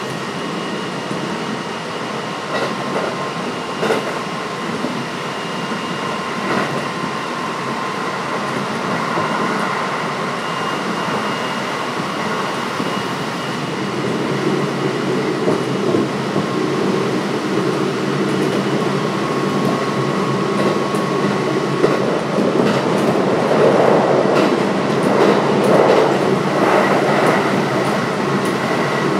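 Kintetsu 5800 series electric train with Mitsubishi GTO-VVVF traction, running at speed and heard from inside the car. There is steady wheel-and-rail noise with the car's air conditioning and a few occasional rail-joint clicks. It gets louder about halfway through.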